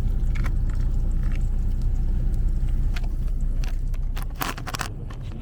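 Truck engine idling with a steady low rumble, dropping in level about four seconds in, with a few sharp clicks and knocks over it, a quick cluster of them near the end.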